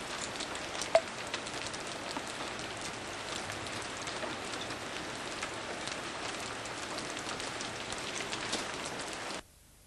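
Heavy thunderstorm rain falling steadily, with many sharp ticks of impacts and one louder knock about a second in. It cuts off abruptly near the end.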